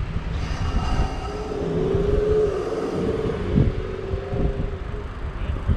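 Wind buffeting the microphone while riding a bicycle, a gusty low rumble. A steady hum from a vehicle comes in about a second and a half in and fades near the end.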